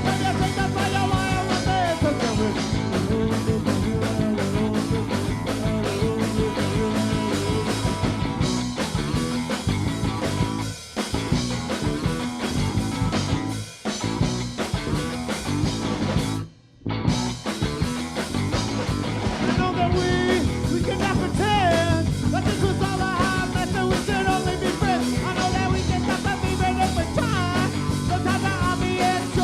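Live rock band playing a song. The music breaks off briefly a few times, and stops almost completely for a moment a little past halfway before coming back in.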